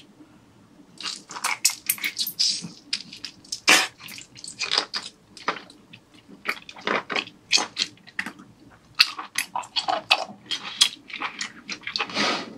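Close-miked biting and chewing of a boiled giant octopus tentacle: a dense, irregular run of mouth clicks and smacks starting about a second in.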